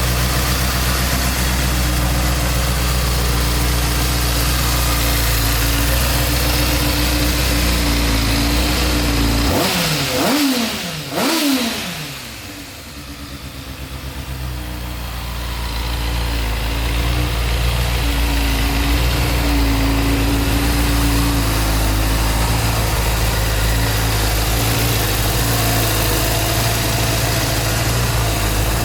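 Motorcycle engine idling steadily, revved twice in quick succession about ten seconds in, then settling back to idle.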